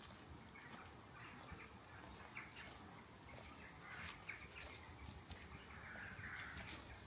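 Faint footsteps crunching on a dry woodland path, with birds calling in the distance, one harsher call near the end.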